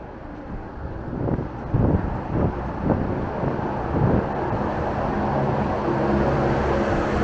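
Wind buffeting the microphone in low gusts for the first few seconds. A steady engine hum from a nearby vehicle then builds from about five seconds in.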